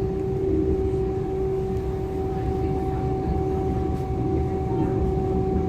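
Inside a DB class 425 electric multiple unit: a steady low rumble from the train with a steady electrical hum over it, holding one pitch.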